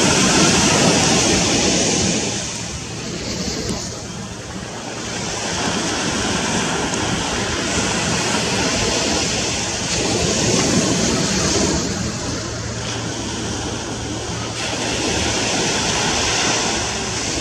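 Gulf of Mexico surf: waves breaking and washing up the beach, a steady rush that swells and eases every several seconds.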